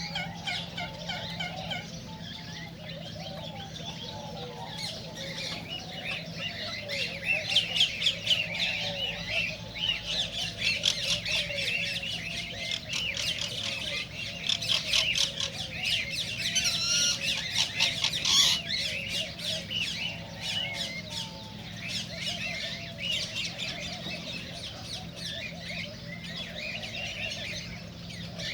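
Many cockatiels squawking and chirping together in dense overlapping calls, busiest through the middle stretch, over a steady low hum.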